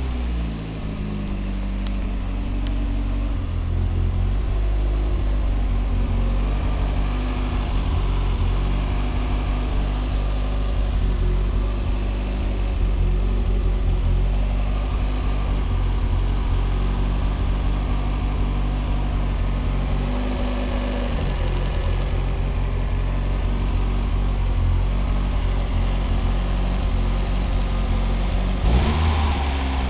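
Turbocharged 1.6-litre Mazda Miata inline-four idling steadily on its first start-up after a full rebuild. Near the end the revs begin to climb.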